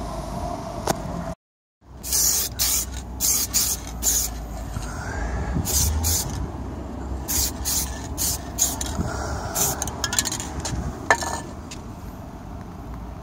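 Short hissing sprays, one after another at uneven intervals, over a steady low hum: a repair spray being applied in quick bursts.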